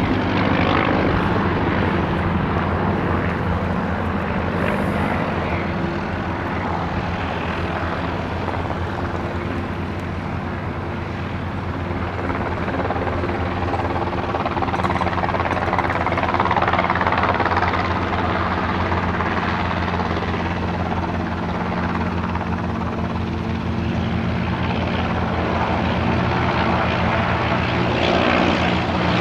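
Aircraft engine running steadily with a fast beat of spinning blades, growing a little louder in the second half and again near the end.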